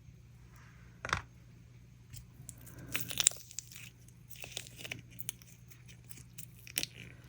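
Silicone mold being flexed and peeled off cured resin succulent castings: scattered crackles, rubbery tearing and small clicks, the sharpest one about a second in.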